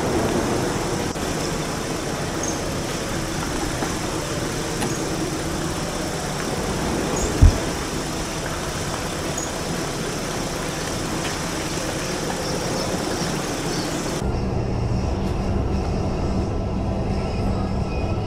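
Steady vehicle and road noise with a single low thump about seven seconds in; near the end it switches abruptly to a duller, lower rumble.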